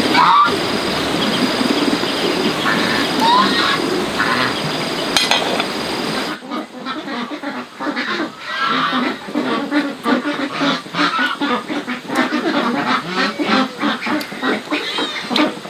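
A steady noisy background, then after a sudden cut about six seconds in, several ducks quacking in rapid, overlapping chatter.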